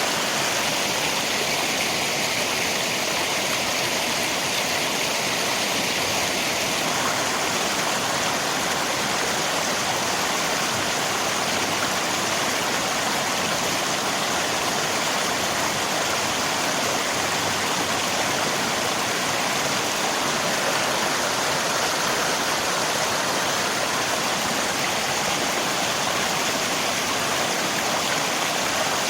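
River water flowing, mixed with falling rain: a steady, unbroken rush.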